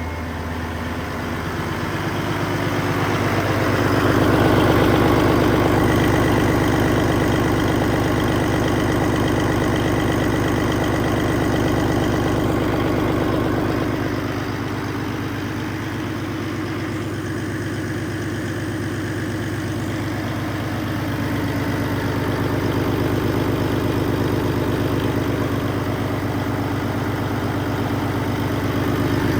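A 2012 PACCAR MX13 12.9-litre inline-six diesel engine idling steadily, swelling a little in level about four seconds in and again near the end.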